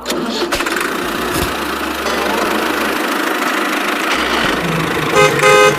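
Steady vehicle running noise, with two short horn beeps near the end.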